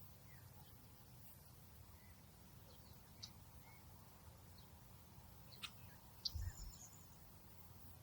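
Faint outdoor ambience: scattered brief, high bird chirps over a low steady rumble, with a few short sharp clicks and soft low knocks a little past the middle.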